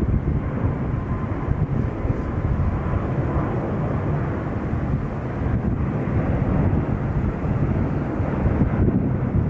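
Jet airliner engines producing a steady, deep rumble, with a faint whine that fades out in the first couple of seconds.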